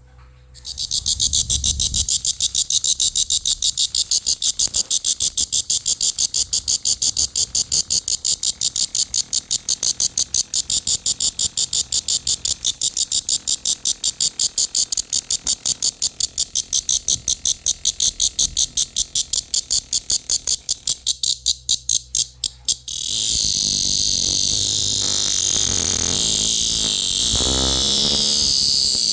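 Cicada buzzing loudly, first in rapid even pulses of about four a second, then switching about 23 seconds in to one continuous high buzz. There is some low rumble from handling near the end.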